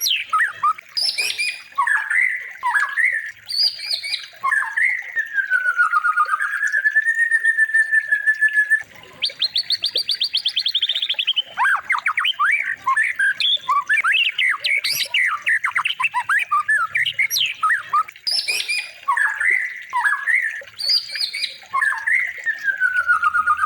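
Songbird song played as a tutoring recording for caged murai batu. The bird gives a varied run of harsh squawky notes, quick chirps, a long whistle that dips and rises again, and a fast rattling trill, and the same phrase sequence comes round again near the end.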